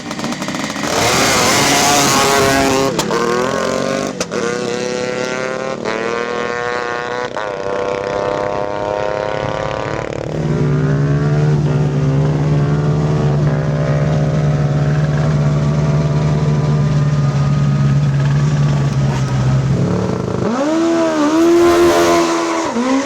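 Classic sprint motorcycles at full throttle. For the first ten seconds an engine climbs in pitch through several quick gear changes. Then a steady engine note holds while its upper tones rise, and near the end an engine is revved up and down in quick blips.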